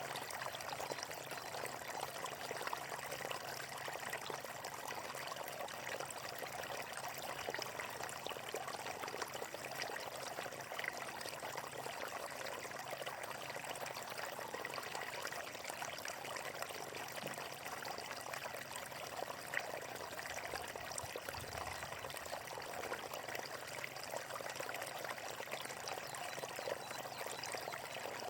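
Water flowing and splashing steadily over rocks: a continuous stream with small trickles and splashes.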